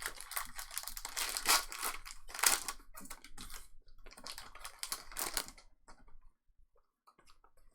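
Trading card pack wrappers crinkling and tearing and cards being handled, in a run of quick rustling, clicky bursts that thin out near the end.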